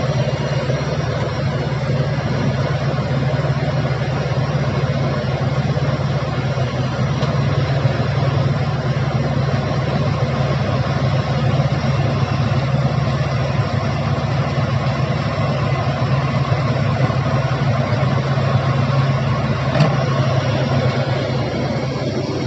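Heavy machinery's diesel engine running steadily at constant speed, a continuous low drone without revving.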